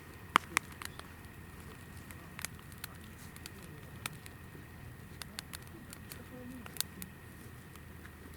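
Hinoki (Japanese cypress) firewood burning in a fire pit, crackling with scattered sharp pops, the two loudest about half a second in, over the steady low noise of the flames.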